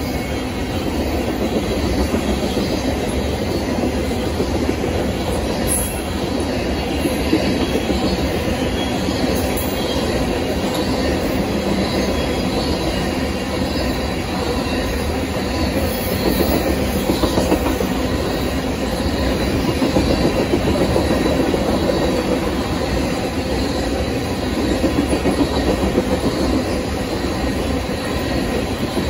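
Freight train of covered hopper cars rolling past close by: a steady rumble of steel wheels on rail, with clusters of louder clacks every few seconds as the cars' wheel sets go by.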